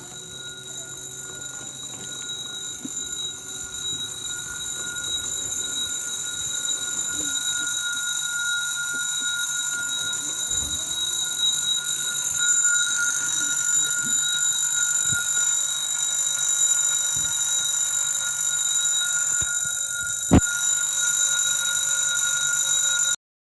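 Electronic railway level-crossing bell ringing steadily, with the sound growing louder over the first half. There is a single sharp click about 20 seconds in, and everything cuts off abruptly just before the end.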